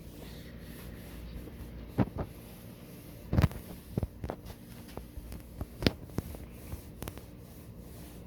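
Paint applicator stroking appliance epoxy onto a refrigerator's metal side, a soft rubbing broken by a scatter of sharp knocks and clicks, the loudest about two, three and a half and six seconds in.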